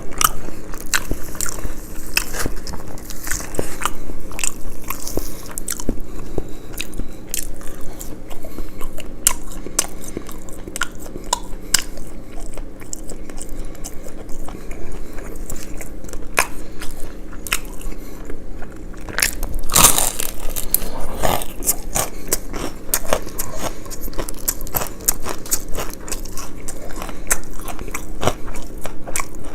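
Close-miked eating: a person biting and chewing crunchy food, a steady run of small crunches and mouth clicks, with a louder spell of crunching about twenty seconds in.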